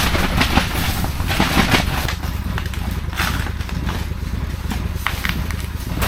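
Snowdog motorized dog sled's engine running with a steady low rumble in the extreme cold, sounding not happy. Strong wind gusts hiss over the microphone several times.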